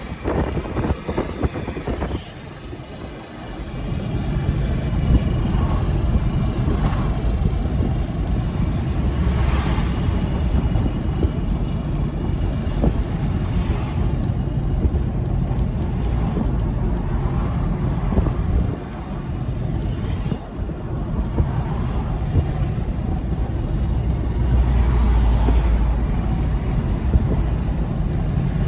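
Truck engine running with a steady deep rumble, quieter for a moment about three seconds in and again near nineteen seconds.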